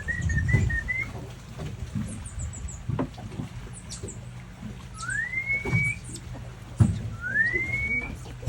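A few short whistled notes, then two long rising whistles about a second each, over the steady low hum of an idling boat motor. Faint short high chirps and a couple of knocks come through as well.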